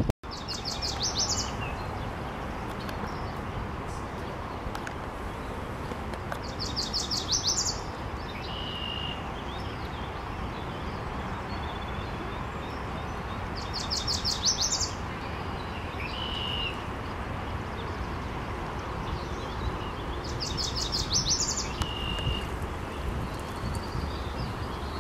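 A bird singing: a rapid, high trill about a second long, repeated four times roughly every seven seconds, with a short single note in between, over a steady background rush.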